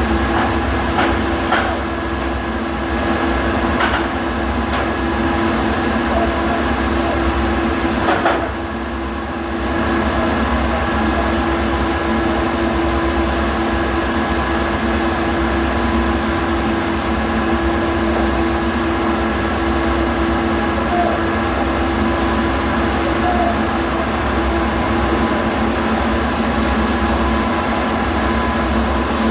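MIG welding arc hissing and crackling steadily, over the hum of the welding machine and shop, with a few sharp clicks early on and a short break in the arc about eight seconds in.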